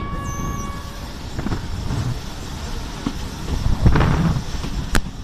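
Passenger train running along the track, heard from an open carriage window: a continuous uneven rumble, with a steady pitched tone for about the first second and a single sharp click near the end.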